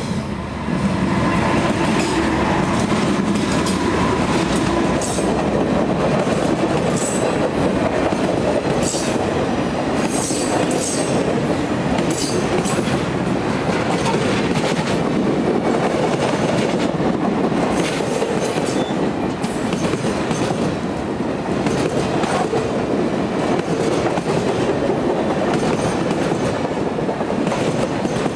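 Norfolk Southern diesel locomotives pass close by under power, followed by a long string of passenger cars rolling steadily past. The wheels make a loud, continuous rumble with repeated clicks on the rails.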